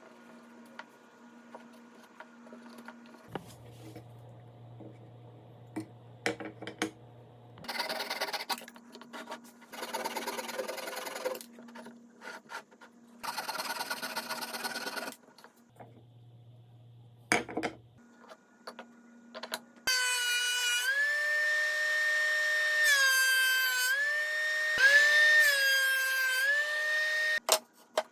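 Woodworking workshop sounds: three short rasping bursts of tool on wood. Then an electric power tool's motor runs with a high whine for about seven seconds, its pitch dipping and recovering several times as it takes load. Scattered knocks and clicks of wood being handled.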